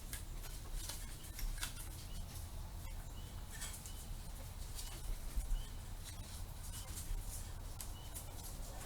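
Light, irregular clicks and taps of hand tools against metal engine parts, over a low steady hum.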